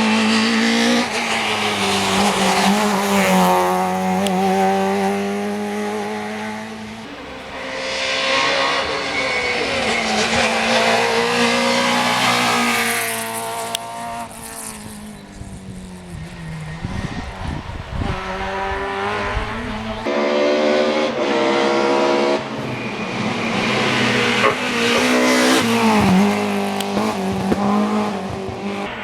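Rally cars driven flat out on a closed special stage, engines revving high and dropping again through quick gear changes. The sound swells as each car nears and fades as it goes, several times over.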